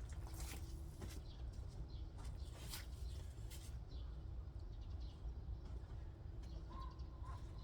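A bird calls twice, two short whistled notes close together near the end, over scattered faint clicks and knocks.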